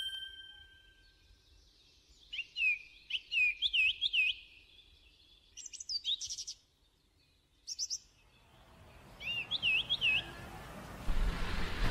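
A small songbird chirping in short groups of quick, curved notes, four bursts a few seconds apart. A bell-like chime fades out at the start, and a soft rushing background rises near the end.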